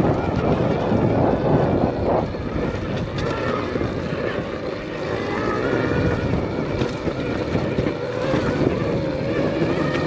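Arctic Leopard XE Pro electric dirt bike ridden along a rocky trail: a steady rumble of tyres and chassis over dirt and rocks, with a faint whine that rises and falls.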